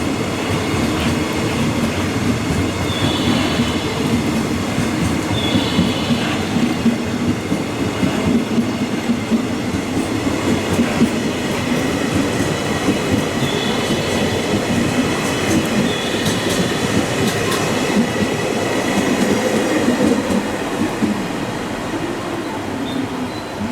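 JR West electric train running past on the Kyoto Line, a steady rumble and clatter of wheels on the track with short high squeals that come and go every few seconds. It eases off near the end.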